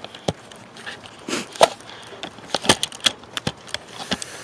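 Icy, crusted snow crunching and crackling underfoot: a dozen or so sharp, irregularly spaced snaps, thickest in the second half.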